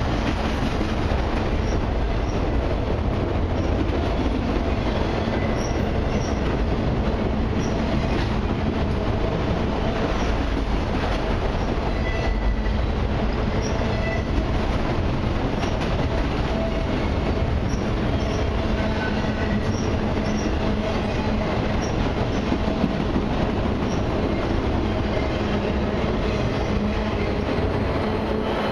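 Autorack freight cars rolling by close up: a steady, loud rumble of steel wheels on rail, with scattered wheel clicks and faint, brief wheel squeal tones coming and going.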